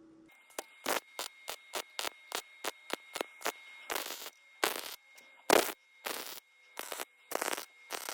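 Wire-feed (MIG) welder with .025 wire laying short stitch and tack welds on thin sheet-metal patches: rapid bursts of arc crackle, about three a second, a few held a little longer, over a steady high whine.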